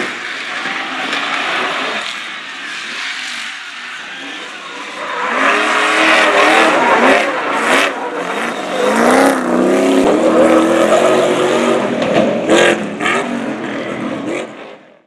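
Stadium Super Truck racing engine revving hard, its pitch rising and falling again and again as the driver gets on and off the throttle. A few sharp cracks come in the second half, and the sound cuts off abruptly just before the end.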